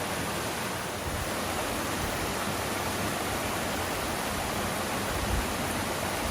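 Steady rush of water falling and cascading at Dark Hollow Falls, a constant even hiss, with a brief low bump about five seconds in.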